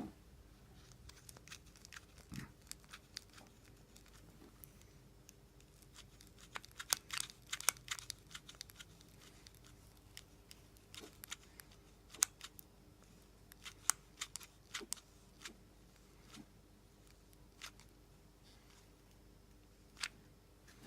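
Scattered sharp clicks and crackles of hands-on work with small parts and material, thickest about a third of the way in and again past the middle, over a faint steady hum.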